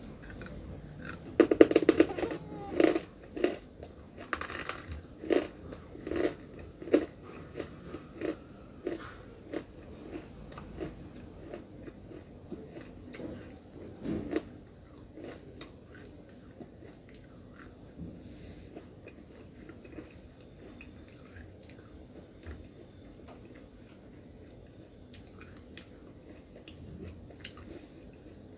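A person biting into a hard white chalk-like stick (nakumat), with a loud crunch about a second and a half in, then chewing it with regular crunches about two a second that fade over several seconds. Another bite comes about fourteen seconds in, followed by quieter chewing.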